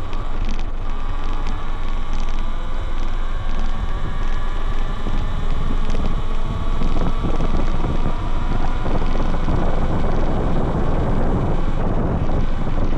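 Heavy wind rushing over the handlebar-mounted microphone of a Talaria Sting R MX4 electric dirt bike at speed. Under it is a faint whine that drifts slowly in pitch.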